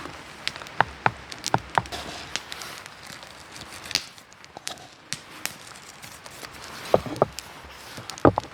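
Wood campfire crackling: irregular sharp pops and snaps over a low steady hiss, sparser in the middle and thicker again near the end.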